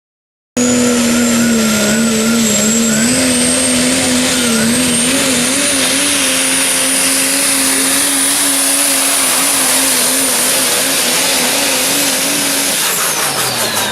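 Modified diesel pulling truck at full throttle during a truck pull. The engine note is loud and steady but wavers, and a high whistle sits over it. It begins suddenly about half a second in and eases off near the end with a falling pitch.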